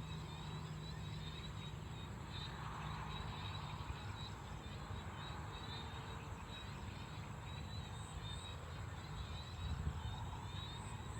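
Dusk chorus in a rice paddy: small paddy frogs and crickets calling together, a steady high insect trill with repeated chirping calls over it, above a low steady rumble.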